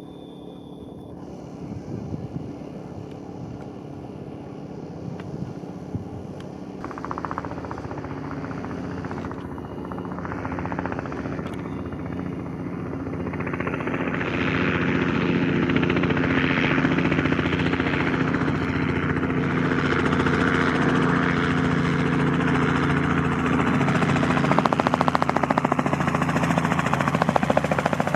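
Aircraft engine drone growing steadily louder over the first half or so, then holding loud and steady.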